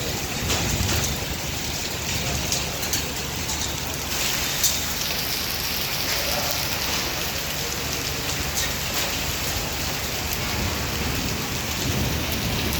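Hailstorm: a steady hiss of hail and rain pouring down, with scattered sharp ticks of single hailstones striking, one louder about four and a half seconds in.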